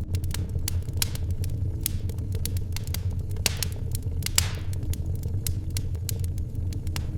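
Wood fire crackling in a fireplace: irregular sharp pops and snaps over a steady low rumble, with a brief hiss swelling and fading a few seconds in.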